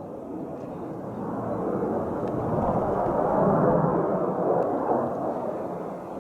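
Military fighter jet's engine rumble as it passes, swelling to a peak about three and a half seconds in and then fading.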